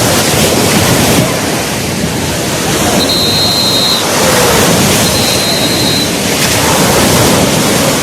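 Steady rush of sea waves breaking on the shore. Two short, thin, high steady tones sound about three and five seconds in.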